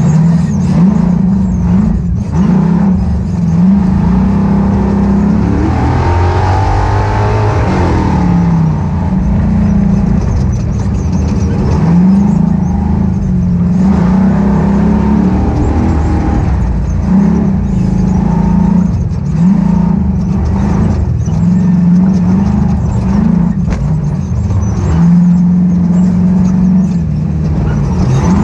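Ultra4 off-road race car's engine revving up and down over and over as the throttle is worked, with a longer rising and falling sweep about six seconds in. Occasional sharp knocks are heard over it.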